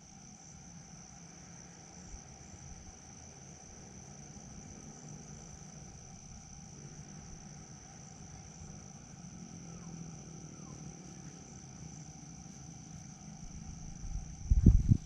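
Crickets or similar insects calling in one steady, unbroken high-pitched chorus. Near the end come a few loud, low thumps.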